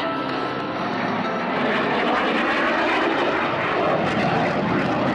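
Airplane engine noise, a dense rushing sound that grows fuller and a little louder about a second and a half in.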